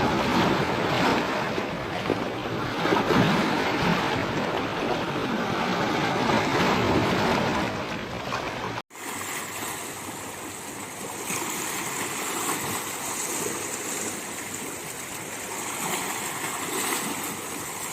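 Sea waves breaking and washing over a rocky shore, a rushing surf that swells and ebbs. About nine seconds in it cuts off abruptly, then resumes as a quieter, steadier wash of water.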